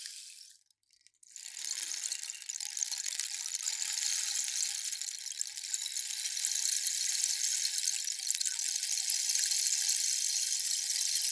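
Rainstick being tipped, its filling trickling down inside in a rain-like patter. One pour runs out just after the start, there is a second of silence, then the stick is turned and a new long cascade begins about a second and a half in.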